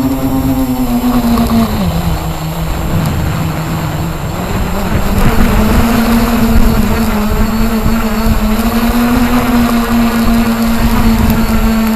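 Radio-controlled helicopter in flight, its motor and rotor making a loud droning tone that drops in pitch about two seconds in, then climbs back up a few seconds later and holds steady.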